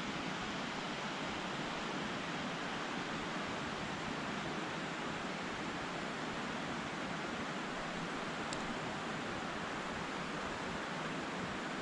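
Steady rushing of a river running high after heavy rain.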